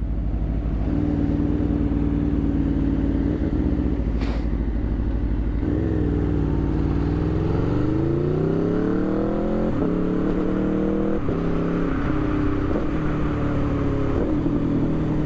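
Aprilia RSV4 Factory 1100's V4 engine riding along at a steady low pitch. About six seconds in it revs up, with an upshift about ten seconds in and another about a second later. It then settles back to a steady pitch.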